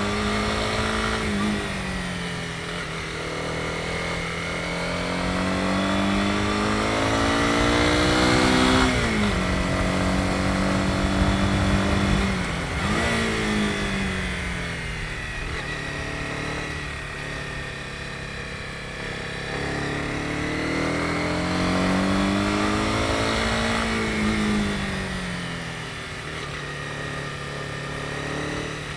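Honda CB250R's single-cylinder engine under way, the revs climbing and falling several times as the throttle is opened and closed, with two sharp drops in pitch a little before halfway.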